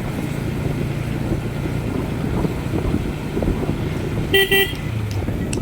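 Motorcycle engine running at riding speed with wind and road rumble. About four and a half seconds in, a vehicle horn gives a quick double toot.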